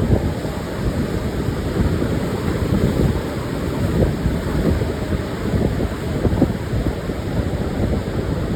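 Pacific surf washing onto a sandy beach, mixed with strong wind buffeting the microphone into a steady low rumble with constant gusty flutter.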